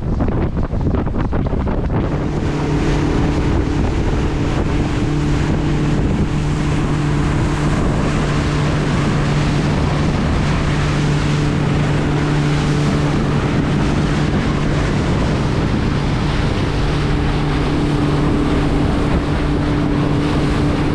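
A boat motor running with a steady hum that comes in about two seconds in, under heavy wind buffeting the microphone.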